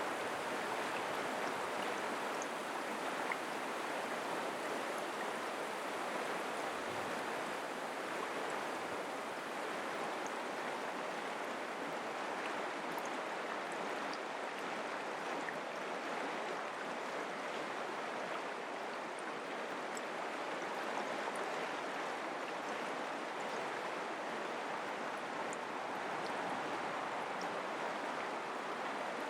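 Mountain creek water flowing over rocks, a steady rushing babble.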